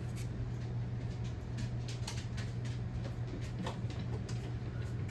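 A 48-inch Casablanca Four Seasons ceiling fan's motor humming steadily and low, with faint scattered ticks.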